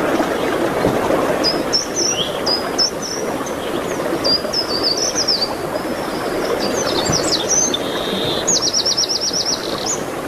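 Songbirds singing short high chirps and warbled phrases over a steady rushing background noise; near the end one bird gives a quick trill of about nine even notes.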